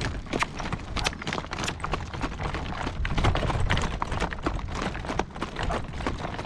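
A horse's hooves clip-clopping on a rocky dirt road as it pulls a driving cart: a quick, irregular run of sharp clacks over a steady low rumble.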